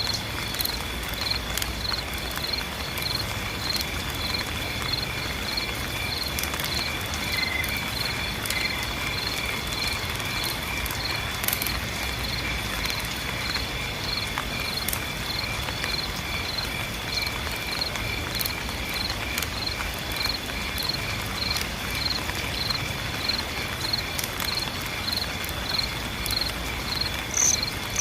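Insects chirping in an even rhythm about twice a second, over a steady high-pitched insect trill, set against a constant hiss of rain with scattered drip ticks.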